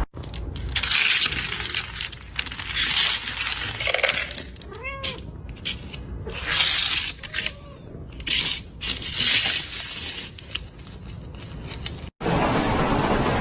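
A cat meowing: one short rising-and-falling meow about five seconds in and a fainter one a little later, between several loud, noisy bursts each lasting about a second.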